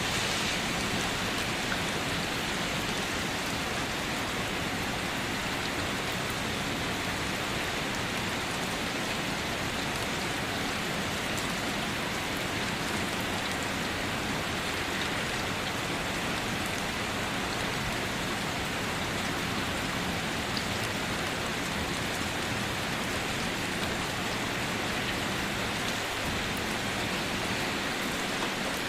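Steady rain falling: an even, constant hiss of raindrops with no thunder.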